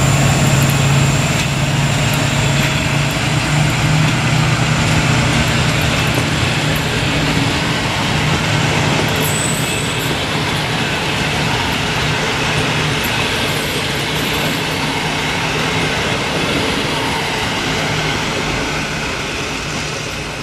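A passenger train rolls past and away. The low, steady drone of the LDH diesel-hydraulic locomotive's engine is strongest in the first half, under the rumble of the coaches' wheels on the rails. A brief high squeal comes about nine seconds in, and the whole sound slowly fades toward the end.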